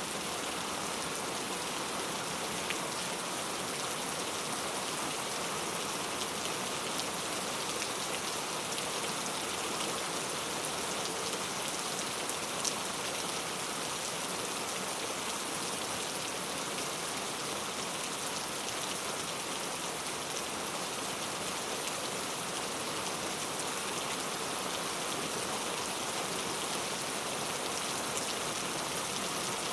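Heavy rain falling steadily on hard urban surfaces, a dense even hiss with scattered drop ticks.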